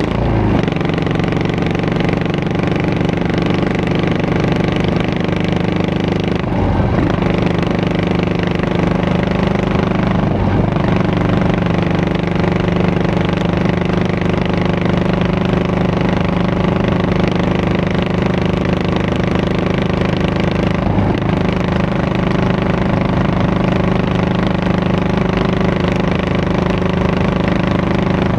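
Yamaha SR400's air-cooled single-cylinder four-stroke engine running steadily through its exhaust, with a brief change in the engine note three times.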